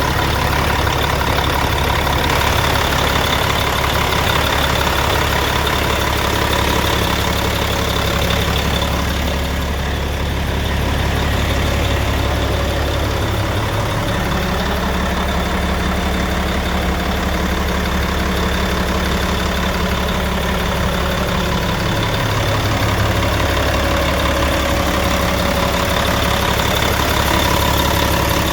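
Freightliner truck's freshly rebuilt diesel engine running on its first run after the rebuild, mostly at a steady idle. Engine speed picks up slightly about halfway through and settles back to idle some eight seconds later.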